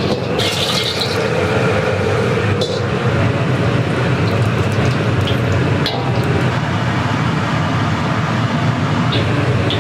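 Steady loud roar of kitchen equipment, with a low hum and a few light clicks and clatters on top.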